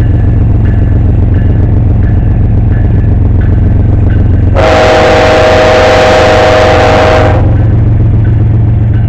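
Diesel locomotives running with a steady low drone as a BNSF double-stack train rolls past. About halfway through, a multi-tone train horn sounds one blast of about three seconds.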